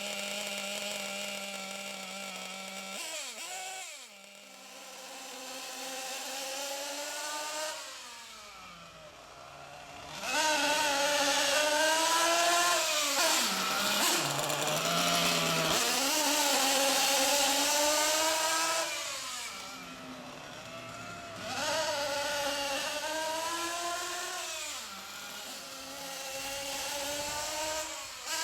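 Small SH-1/8 gasoline model engine running during break-in, its speed rising and falling as the throttle is worked: running slowly at first, revved up sharply about ten seconds in and held high and loud for several seconds, then throttled back and revved up again.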